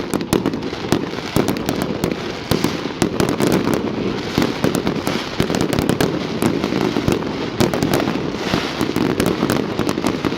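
Fireworks display going off continuously: a dense rumble of bursts with rapid sharp crackles and bangs throughout.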